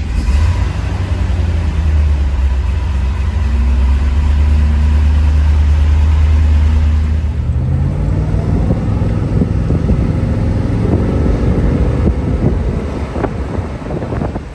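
1969 Corvette's 427 cubic-inch big-block V8 (the 435 hp tri-carb L71) running just after a cold start. It holds a steady, loud idle whose pitch drifts up through the first half, shifts about halfway through, then climbs again and turns rougher near the end.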